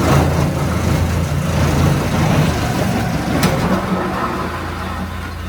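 A heavy engine running steadily at a constant speed, with a single sharp click about three and a half seconds in.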